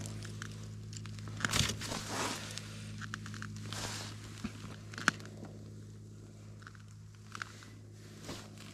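Crunching and scuffing in snow with short handling clicks, loudest a couple of seconds in, over a steady low hum.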